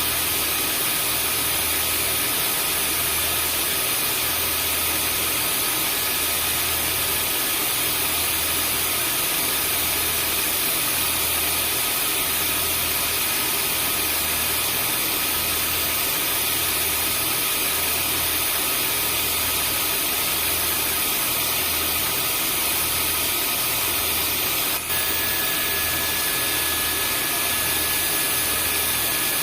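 Vacuum cleaner motor running steadily, a constant rushing hiss with a thin whine over a low pulsing hum. A brief dropout comes about 25 seconds in, after which a slightly different whine joins.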